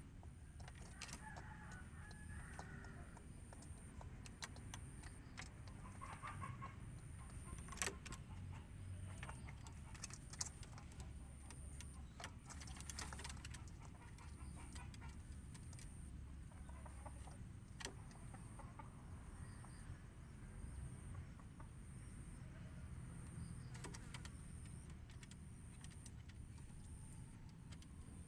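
Chicken clucking faintly now and then, among scattered sharp clicks and taps.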